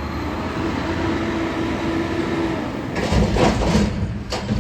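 Autocar Xpeditor garbage truck's diesel engine revving to power the lift hydraulics, with a steady whine over the engine. About three seconds in it gets louder and busier, with a few sharp clanks.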